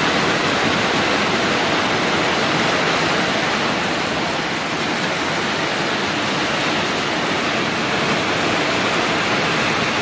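Heavy rain pouring down in a steady, loud hiss, falling onto standing floodwater and foliage.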